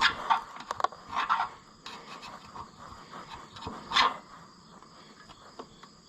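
Hand tool scraping hardened old gasket material off an engine part in short, scratchy strokes: a quick run of several in the first second or so and one more, stronger stroke about four seconds in.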